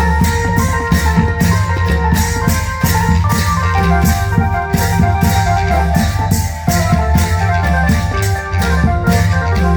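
Thai super klong yao band music played loud through a PA sound system: a held electronic keyboard melody over heavy bass and a steady drum beat.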